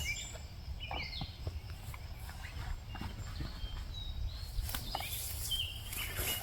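Songbirds calling on and off, with short chirps and trills, over a low rumble on the microphone. Scattered footsteps are heard.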